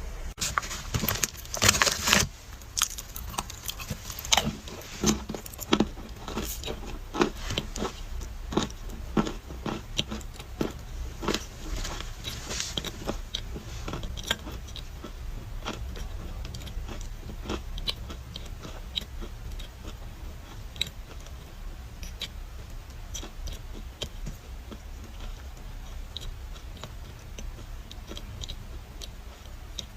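Dry clay crunching and crumbling in a long run of sharp crackles and snaps, dense and loud in the first half, then sparser and fainter.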